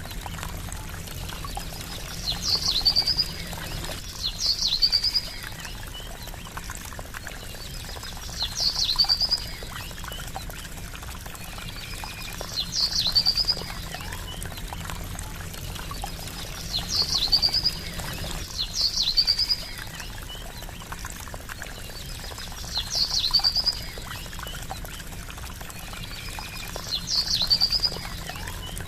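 Water trickling and splashing steadily, with a small bird repeatedly giving a short, high, sharp call that ends in a quick trill, about eight times at uneven intervals of roughly two to four seconds.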